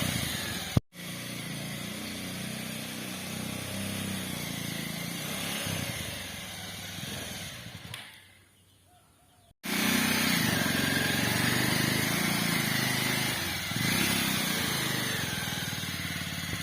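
Small motorcycle engine fitted in a homemade mini jeep, running steadily, heard in separate edited clips: it breaks off about a second in, fades to near silence past the middle, then runs again.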